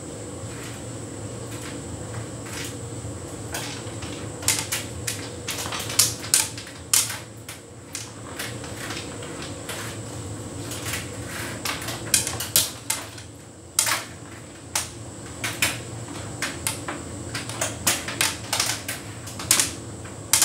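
Hotpoint heat pump tumble dryer running: a steady hum, with irregular sharp clicks and taps as the load tumbles in the drum, coming thicker from about four seconds in.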